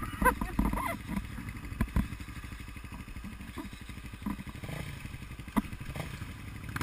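Off-road motorcycle engine running at a low idle, its firing pulses steady, with several sharp clattering knocks over it.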